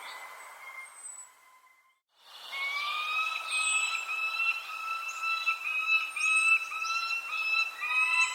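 Bird calls: short, high, falling chirps over a loud, steady whistling tone that shifts pitch in small steps. The sound drops out briefly about two seconds in.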